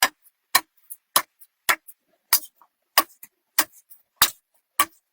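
Repeated sharp strikes in an even rhythm, about one every 0.6 seconds, nine in all.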